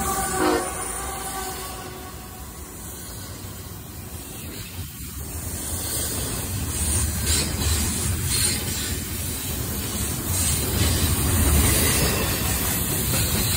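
CSX intermodal freight train passing close by: a diesel horn blast cuts off about half a second in, then the locomotive and double-stack container cars rumble past with the click of wheels over the rail joints, growing louder toward the end.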